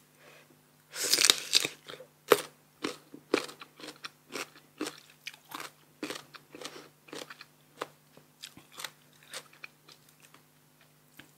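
Crisp, sour green mamuang bao mango being bitten and chewed. There is one loud crunching bite about a second in, then steady crunchy chews about two a second that get softer toward the end.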